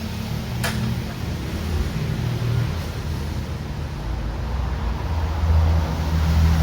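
A motor vehicle's engine running with a low rumble that grows louder toward the end, and a single sharp metallic click about half a second in.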